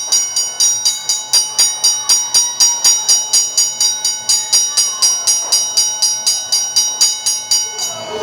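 Wrestling ring bell struck rapidly and evenly, about five rings a second, each ring bright and metallic.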